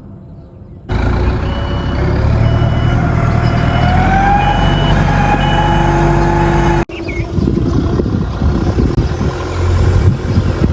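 A vehicle engine running and revving up, its pitch rising and then holding, with a high electronic beep repeating about once every 0.7 s. After a sudden break about seven seconds in, a rougher, noisier rumble follows.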